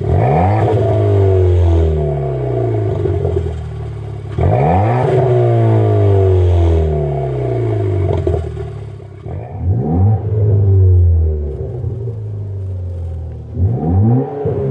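Ford Fiesta ST's 1.6-litre turbocharged four-cylinder revved four times through a Flowmaster American Thunder cat-back exhaust with an Outlaw muffler and resonator. Each rev rises quickly and then falls away slowly.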